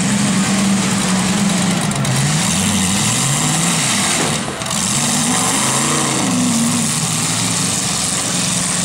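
Demolition derby pickup truck engines revving hard, their pitch climbing and falling again and again over a steady loud engine din.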